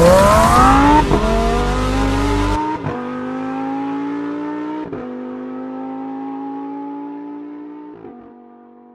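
Lamborghini Huracán Performante's V10 accelerating hard through the gears: the engine note rises steadily and drops at quick upshifts about 1, 3, 5 and 8 seconds in, fading away near the end. A loud background rush and rumble stops abruptly about two and a half seconds in.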